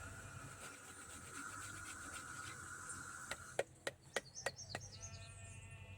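Fresh ginger being rubbed on a small hand grater: a run of short scraping strokes, about three a second, starting a little after halfway. Faint animal calls sound in the background.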